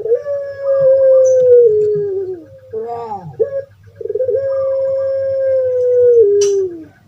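Puter pelung (Barbary dove) cooing its long drawn-out call: two long held coos, each about two and a half seconds and dipping in pitch at the end, with a short quick note between them.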